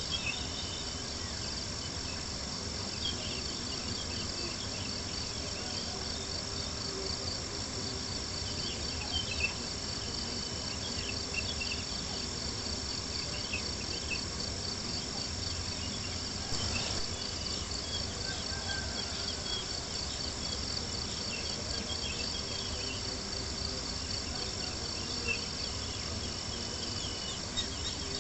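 Crickets chirping in a steady, continuous high trill, with a campfire crackling underneath and a few louder pops scattered through.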